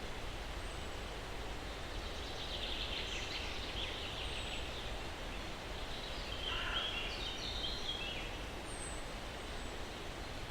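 Steady breeze in pine trees with birds calling: a rapid chattering trill about two and a half seconds in that lasts a couple of seconds, then another burst of calls around the middle, and a few faint high thin whistles.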